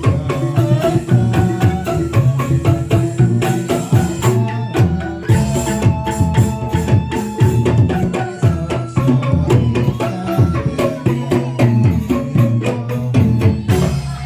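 Band music: an instrumental passage with drums and tambourine keeping a steady beat over a heavy bass line, while a melody instrument holds sustained notes.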